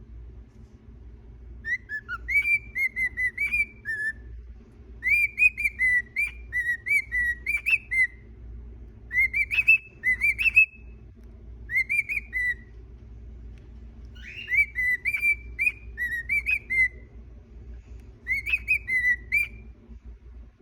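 Cockatiel whistling its song: quick warbling phrases of rising and falling notes, about six phrases with short pauses between them, over a steady low hum.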